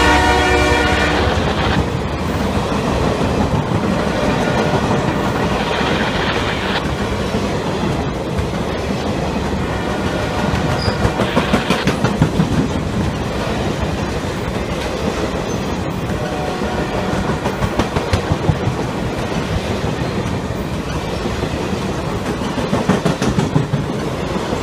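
A CSX-hauled Ringling Bros. circus train passing at speed: its locomotive horn chord dies away about a second and a half in, leaving the steady rumble of the cars' wheels on the rails. Bursts of clickety-clack from wheels over rail joints come and go.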